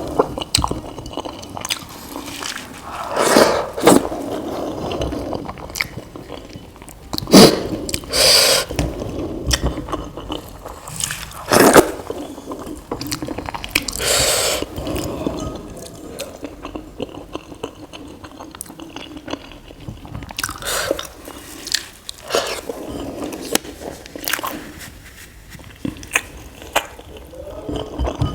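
Close-miked eating sounds: idli with sambar being chewed, with wet mouth noises and irregular clicks and smacks, a few of them louder.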